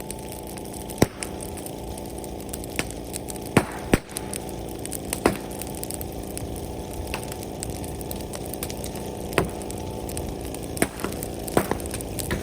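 Brush bonfire crackling, with a dozen or so sharp pops and snaps at irregular intervals over a steady rushing noise.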